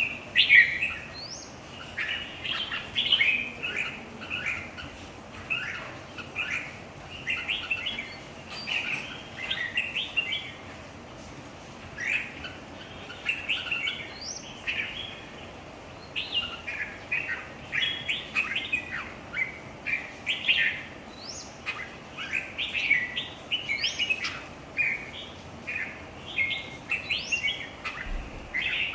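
Red-whiskered bulbul singing, phrase after phrase of quick, clear warbling notes with brief pauses between bursts, as in a competition song.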